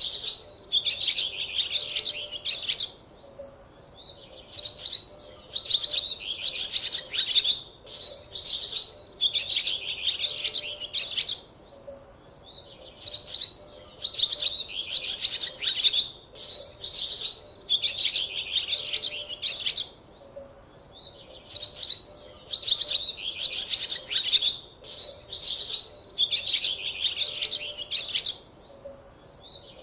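Small birds chirping and twittering in quick phrases of a few seconds each, broken by short pauses; the same pattern of phrases comes round about every eight and a half seconds.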